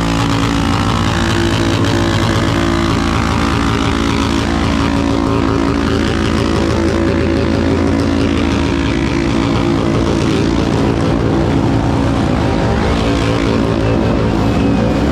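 Motorcycle engine running steadily at low revs, its pitch holding even throughout.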